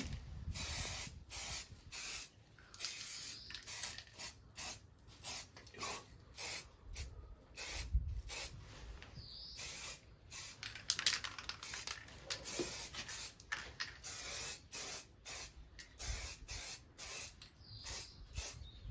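Spray paint hissing out in repeated short bursts, roughly one or two a second, as the frame is coated.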